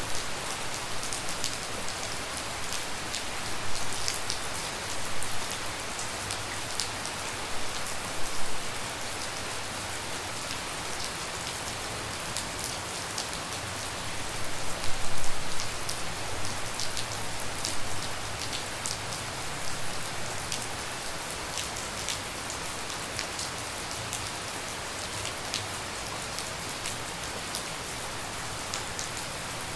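Steady tropical rain falling, with single drops tapping close by. The patter swells louder a few times, most strongly about fifteen seconds in.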